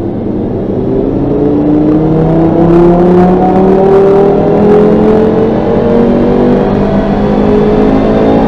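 Audi RS3 8V1's turbocharged 2.5 TFSI inline five-cylinder, fitted with a TC610XT hybrid turbo and exhaust valves open, pulling at full throttle in fourth gear on a chassis dyno. Its loud note rises steadily in pitch as the revs climb through a full-load power run.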